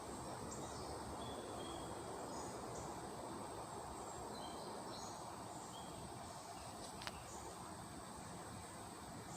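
Faint steady background hiss with a few soft, short high chirps scattered through, and a single sharp click about seven seconds in.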